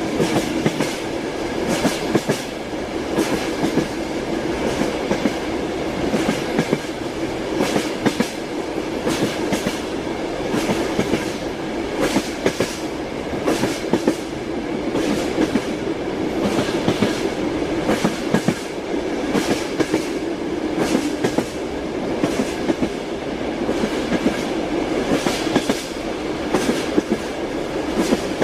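Train wheels clacking over rail joints: clusters of sharp knocks every second or two over a steady rolling rumble of a moving train.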